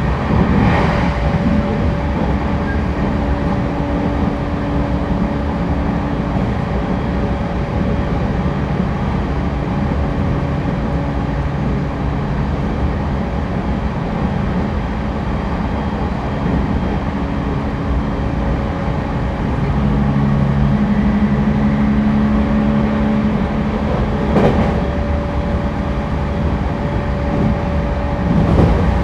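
Running noise inside an E231 series 1000 commuter electric train car under way: a steady rumble of wheels on the rails, with a humming tone that fades in and out, and a few sharp clicks about a second in and near the end.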